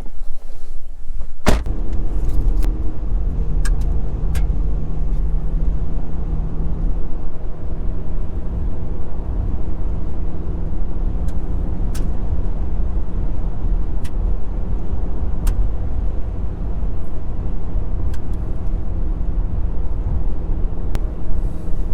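Pickup truck running and driving: a steady low engine and road rumble with a held engine hum, after a single sharp knock about a second and a half in.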